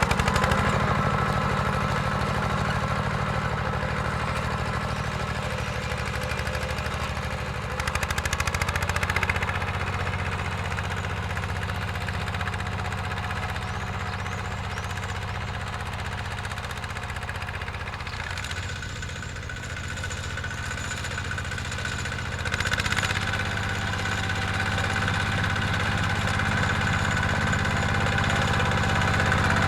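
Mini tractor's engine running steadily while plowing. It dips a little past the middle and picks up again a few seconds later.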